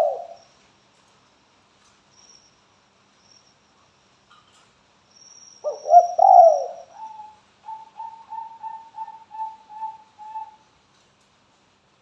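Spotted dove cooing, used as a lure call to get other doves to answer. A loud cooing phrase comes about six seconds in, then a run of about eight short, even coos, roughly three a second.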